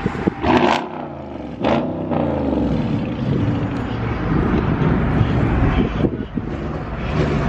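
A car engine revved twice in quick blips, its pitch falling away after each, then a steady low engine rumble.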